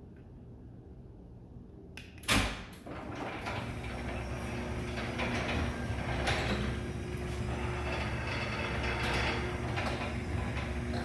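Full-view garage door driven by a LiftMaster 8500W jackshaft opener: a sharp clunk about two seconds in, then the opener's steady motor hum and the door running in its tracks. The torsion spring is not yet oiled, which adds to the noise.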